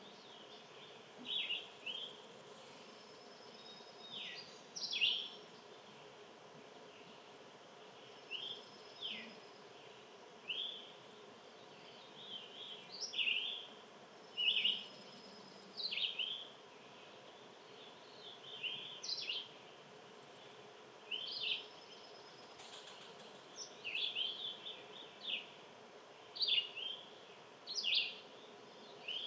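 Small songbirds chirping: short, sharp, mostly falling call notes, single or in quick clusters, every second or two, over a faint steady hum.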